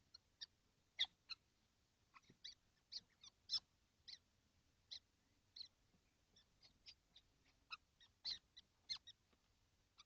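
Common kestrel nestlings in a nest box giving short, faint, high squeaky calls, scattered irregularly at about one to three a second.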